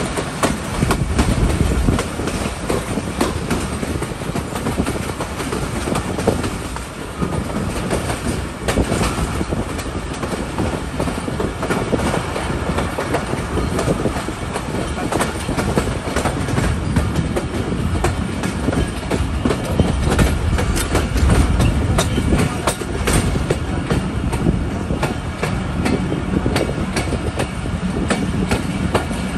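Passenger train coaches running on the rails, wheels clattering over rail joints and points, with a steady rumble, heard from the coach's open doorway.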